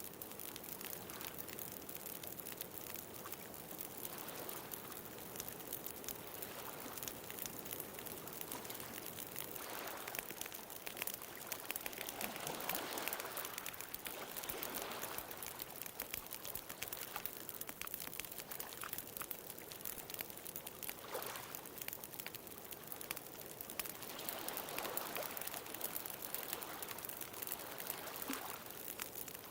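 Wood fire crackling with many small pops, over ocean waves washing ashore; the surf swells up about twelve seconds in and again near twenty-five seconds.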